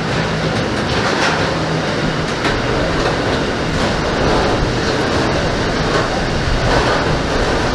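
Freight train wagons loaded with steel coils rolling past, with a steady loud rumble and wheels clacking over the rail joints.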